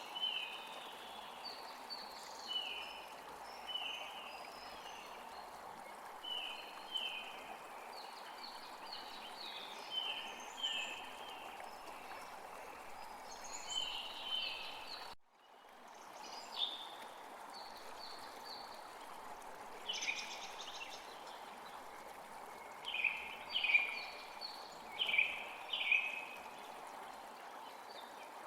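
Steady rush of running water with small birds calling over it: short chirps that slide downward, often in pairs or quick runs, loudest in a burst near the end. The sound cuts out for a moment about halfway through.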